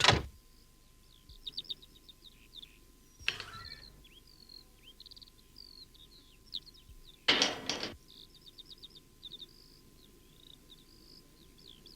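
Small birds chirping and twittering in quick high-pitched phrases throughout. Two brief louder noisy sounds come through about three seconds in and again at about seven and a half seconds, the second the louder.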